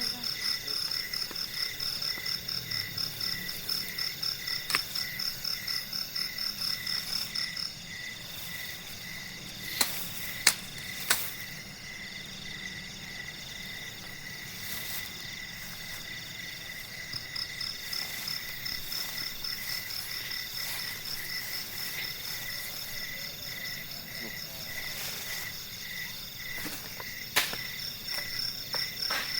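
Night chorus of insects and frogs in forest: a fast, pulsing high chirr that stops about eight seconds in and comes back after about seventeen seconds, over a steadier pulsing lower call. A few sharp clicks stand out around ten seconds in and again near the end.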